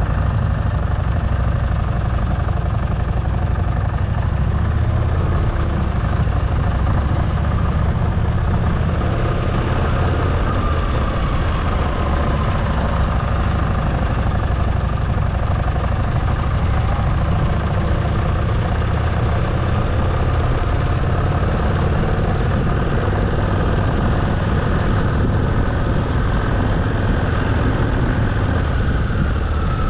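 Motorcycle engine running steadily while riding, its pitch drifting slowly up and down.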